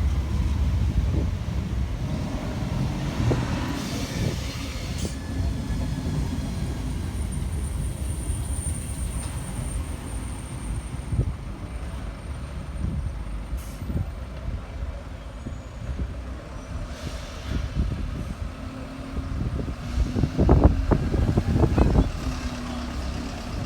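Heavy vehicle rumbling, loudest at first and easing off, with a brief high squeal near the middle and a cluster of knocks near the end.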